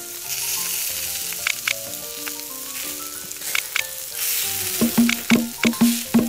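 Frying sizzle sound effect: a steady hiss of food cooking in a pan, growing louder about four seconds in, over light background music.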